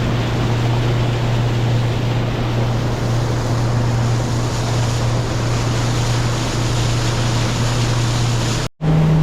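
Motorboat's engine running at a steady cruising speed while underway, with wind and water rushing past. Near the end the sound cuts out for an instant and comes back with a higher, steady engine note.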